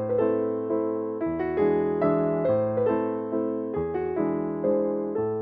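Slow, gentle piano music: single notes struck about twice a second, each fading away, over held low bass notes that change every second or so.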